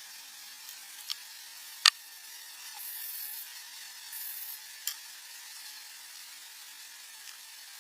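Campfire hissing with a few sharp crackling pops, the loudest about two seconds in.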